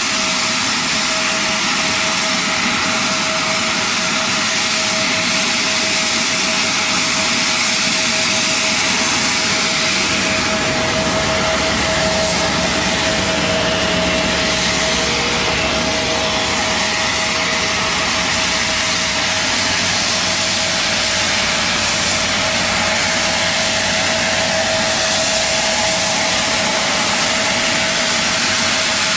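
Steady machinery noise: an engine running with a constant whine and an even hiss, unchanging throughout.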